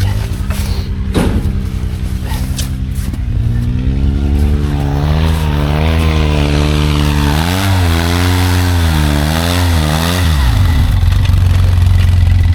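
Side-by-side UTV engine revving under load, its pitch climbing in steps and then wavering up and down before falling away about ten seconds in. A rushing noise builds alongside from about five seconds in.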